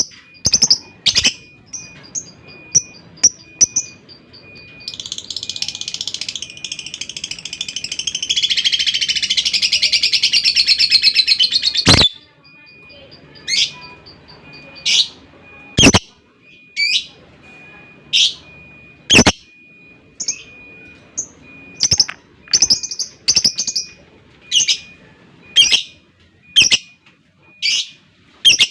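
Lovebird calling. A few sharp chirps lead into a long, rapid chattering trill (the 'ngekek panjang') from about five seconds in; it grows louder for about seven seconds and stops abruptly. Shrill single calls follow, about one a second.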